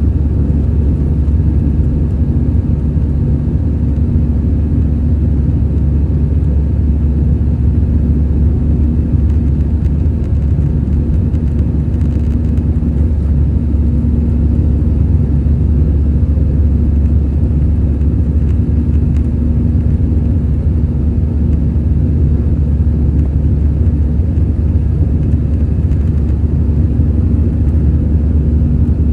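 Airbus A320-214 engine and airflow noise heard inside the passenger cabin: a steady low rumble with a constant hum, unchanging throughout.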